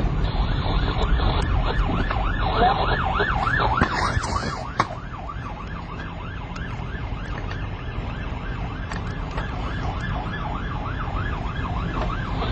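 Police car siren on a fast yelp, rising and falling about four times a second, over low road and engine rumble. A short burst of noise comes about five seconds in, after which the siren is fainter.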